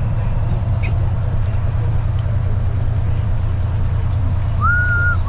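Freightliner FLD truck's diesel engine droning steadily in the cab, with a couple of faint clicks and a brief high tone near the end.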